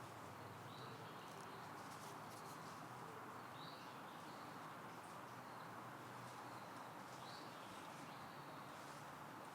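Faint steady outdoor background noise with a short, thin bird chirp repeated about every three seconds and light scattered ticks.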